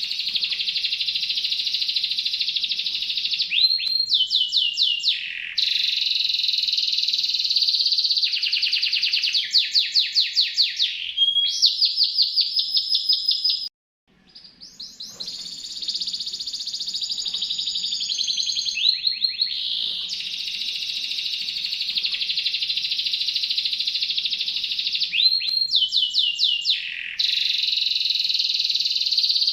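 Canary singing continuously in long, shrill, rapid rolling trills and runs of fast repeated notes. The song cuts out suddenly about halfway through and fades back in.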